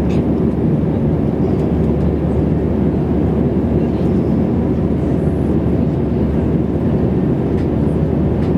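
Steady cabin drone of an airliner in flight: engine and airflow noise heard from inside the passenger cabin, even and unchanging.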